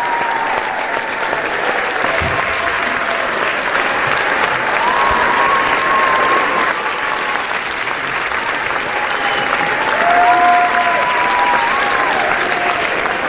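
A large crowd applauding steadily, a dense wash of many hands clapping, with a few voices calling out over it.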